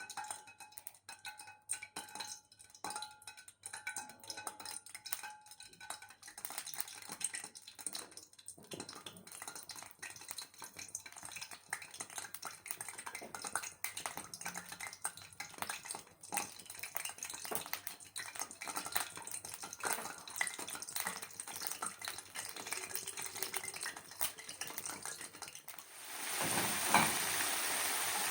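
Irregular clinks, taps and stirring of utensils against a bowl and dishes during food preparation. About 26 seconds in, a steady sizzle starts as floured chicken wings go into hot frying oil.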